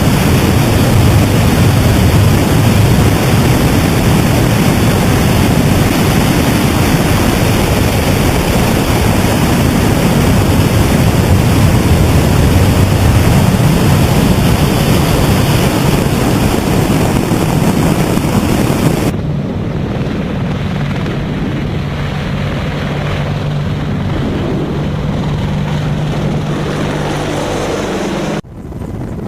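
Helicopter noise: a loud, even rush of rotor and wind noise with no voices. About two-thirds of the way through it drops to a quieter rush over a steady low engine hum, and it cuts off abruptly near the end.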